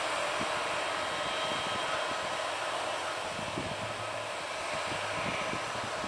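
Airliner engines running with a steady rushing hiss and a faint whine held under it.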